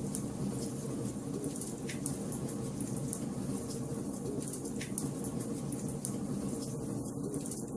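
Wood fire burning in a fireplace: a steady low rush of flames with many small crackles and a few sharper pops of the burning logs, about two and five seconds in.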